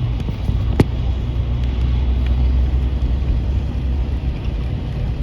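Steady low rumble, with one sharp click a little under a second in.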